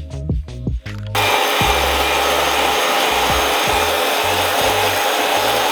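Background music with a beat; about a second in, a loud power saw starts cutting wood, running steadily over the music.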